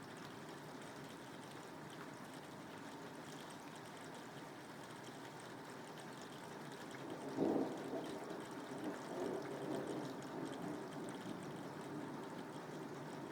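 Steady soft rain, with a clap of thunder about halfway through that breaks sharply and then rolls and fades over several seconds.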